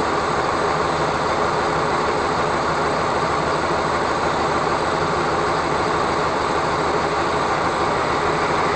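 Steady vehicle running noise, an even rumble and hiss that does not change.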